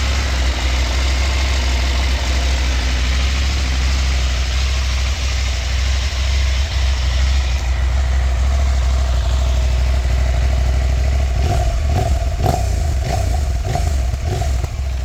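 KTM 890 Adventure R's parallel-twin engine idling steadily, with a few short throttle blips roughly two-thirds of the way through.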